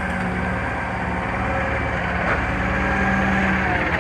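Engine of a CNG front-loader garbage truck running steadily, with a faint steady whine above it.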